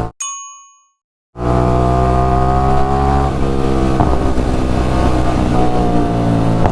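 Motorcycle with a very loud aftermarket exhaust running on the move, its engine note climbing slowly and then holding steady. The sound drops out for about a second near the start.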